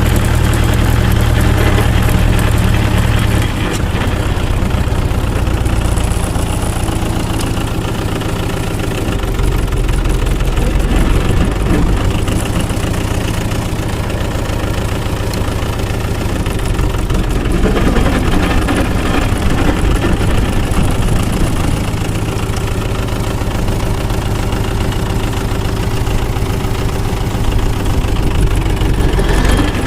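Tractor engine running steadily, its sound shifting around four seconds in and again past the midpoint.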